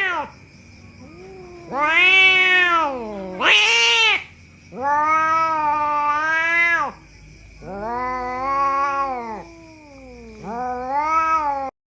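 Domestic cat yowling: five drawn-out calls, each rising and then falling in pitch, with short pauses between them. The last call cuts off suddenly.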